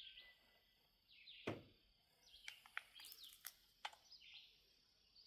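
Small birds chirping in short repeated calls, with one soft thump about a second and a half in and a few light clicks shortly after.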